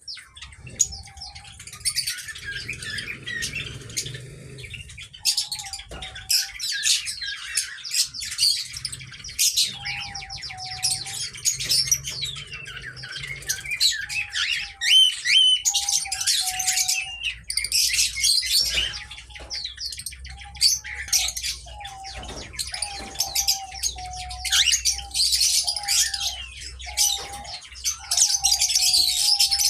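Aviary cockatiels chirping and squawking, with many short calls overlapping without a break.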